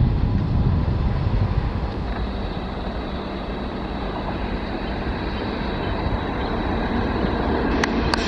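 Twin WAG-7 electric locomotives hauling a loaded coal train on approach: a steady rumble of the locomotives running and the wheels on the track, growing louder toward the end, with a thin steady high whine. A couple of sharp clicks come near the end.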